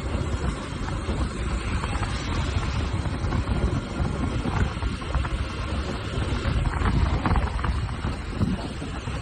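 Wind noise buffeting the microphone on a moving TVS Apache motorcycle, with the engine running underneath in a steady low rumble.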